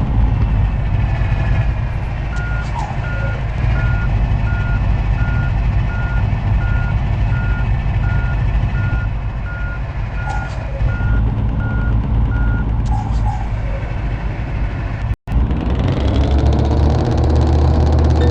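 Truck reversing alarm beeping evenly, about one and a half beeps a second, over the steady rumble of the truck's engine; the beeping stops about twelve seconds in. After a short break the engine revs up.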